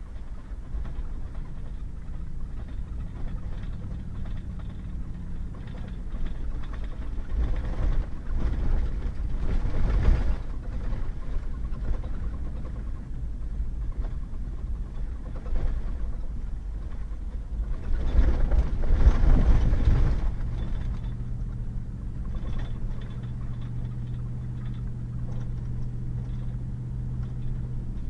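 Pickup truck driving on a wet gravel road, heard from inside: a steady low engine drone with road and tyre noise, swelling twice into a louder rush, about a third of the way in and again about two-thirds in.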